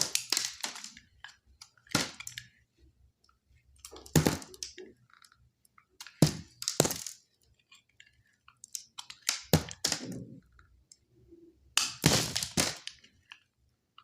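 Knife cutting through dry soap. Crisp crunching and crackling strokes come in separate bursts every second or two, with short silent pauses between the cuts.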